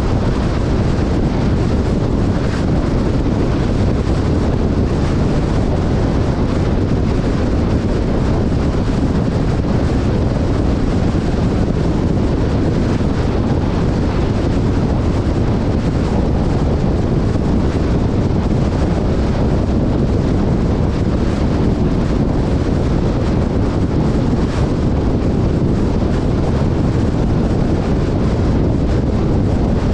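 Steady wind buffeting the microphone over the continuous low rumble of a moving off-road vehicle.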